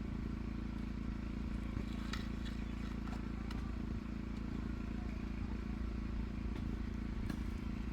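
An engine running steadily at an even low speed, with a few faint clicks and taps over it.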